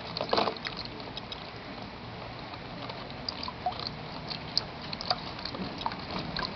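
Rain falling steadily, a hiss with many small scattered ticks of drops pattering and dripping, and one louder patter about half a second in.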